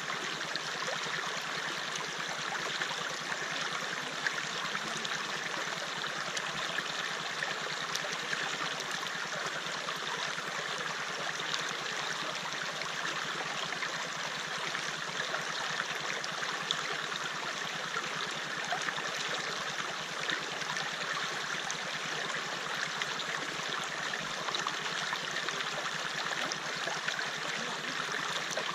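River water flowing steadily, a continuous rushing and babbling with small splashes.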